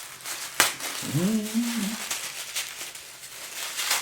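Gift packaging being handled: a sharp knock about half a second in and another near the end, with light rustling between. A short rising hum of a man's voice about a second in.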